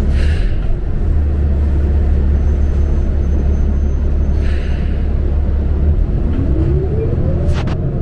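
Interior ride sound of a New Flyer XD40 diesel bus: a steady low engine drone with two short hisses. Near the end a whine rises in pitch as the bus accelerates, and a couple of sharp clicks follow.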